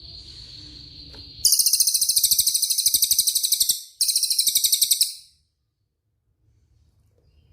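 Recorded bird song used for masteran training: a steady high thin note, then a very fast, high rolling trill in two loud bursts with a short break between them.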